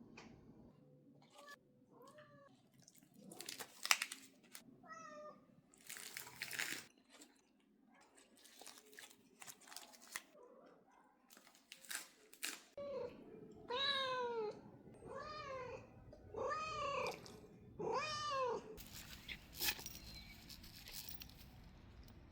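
A cat meowing: a few short meows, then a run of about five long, arching meows roughly a second apart, with some short rustling noises in between.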